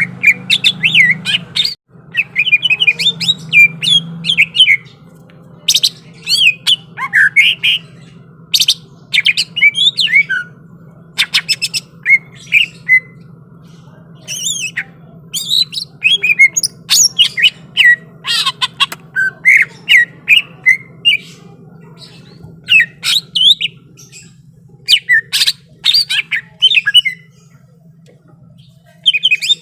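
Green leafbird (cucak ijo) singing hard in rapid bursts: quick whistled chirps and glides mixed with sharp, harsh squawking notes, with short pauses between bursts. A steady low hum runs underneath.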